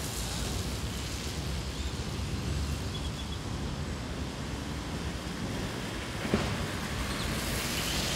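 Steady outdoor wash of rain and wind noise, with one short knock about six seconds in.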